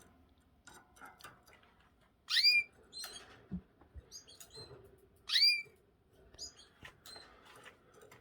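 Canaries calling: two loud rising call notes about three seconds apart, with softer short chirps in between.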